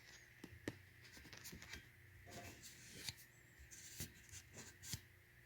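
Faint scratching and rubbing with scattered light clicks and taps: rusty metal engine parts being handled and their surface rust rubbed off.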